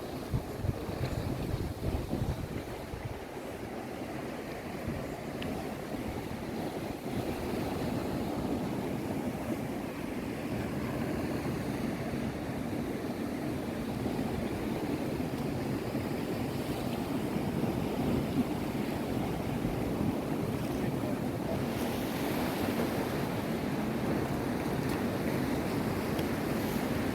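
Sea waves washing on the shore in a steady rush, with wind buffeting the microphone in low gusts near the start.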